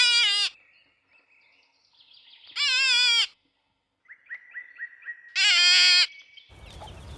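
Three short, high, quavering bleat-like animal cries, each about half a second long and a couple of seconds apart. A faint high steady chirping tone runs underneath, and a low noisy rumble of background ambience comes in near the end.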